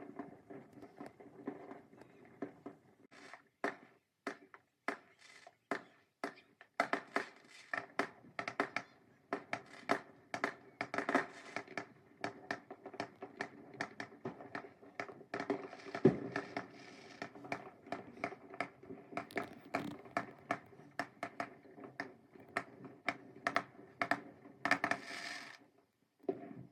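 Fireworks going off: a rapid, irregular run of sharp pops and crackles. The loudest bang comes about sixteen seconds in, and a dense burst of crackling follows near the end.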